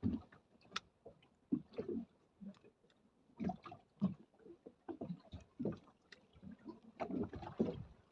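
Choppy water slapping and gurgling against the hull of a small speedboat drifting with its engine off, in short irregular splashes.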